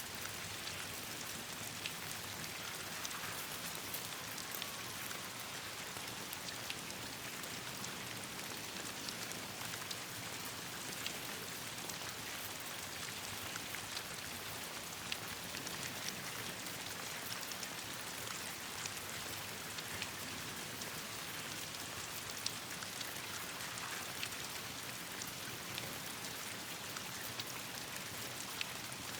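Steady rain falling on leaves and the ground, an even hiss dotted with many small sharp ticks of drops at irregular moments.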